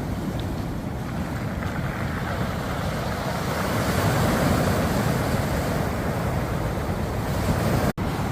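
Waves surging over a beach of round pebbles, the stones rattling as the water washes in and drags back, swelling about halfway through. The sound cuts out for an instant near the end.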